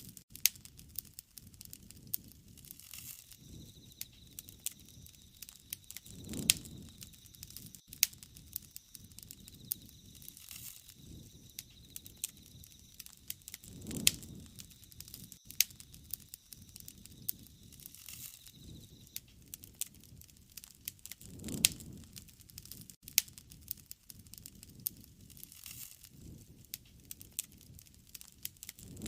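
Wood fire crackling, with frequent sharp pops and snaps. A low rushing swell comes and goes about every seven to eight seconds.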